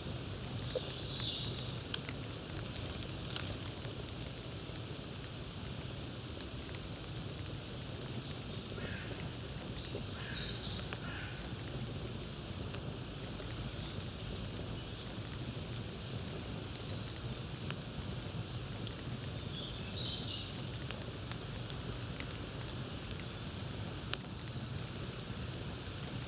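Campfire crackling steadily, with many small sharp pops over a constant hiss and one louder pop about twenty-four seconds in. A few short bird chirps come through about a second in, around ten seconds in and around twenty seconds in.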